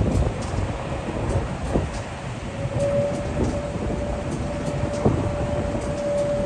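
Boeing 747 jet engines at takeoff power, a steady deep rumble with a steady whine joining in about halfway through.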